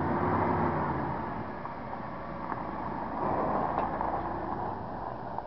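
Engine of a 1988 Ford F-150 pickup running as the truck is driven and manoeuvred to park. The pitch shifts in the first second, and the sound swells again around three seconds in.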